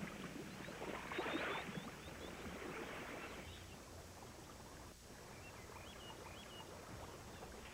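Soft splashing and sloshing of water, loudest in two stretches in the first half, with a few faint high bird chirps.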